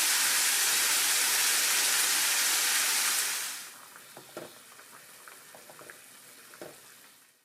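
Food frying in a pan: a loud sizzle that dies down about three and a half seconds in to a quiet sizzle with scattered small pops.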